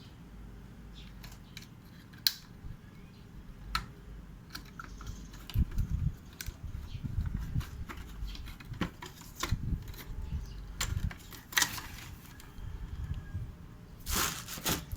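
Irregular clicks, taps and low knocks of hands handling and taking apart a UPS unit's plastic casing and parts, busier from about five seconds in, with a louder clatter near the end.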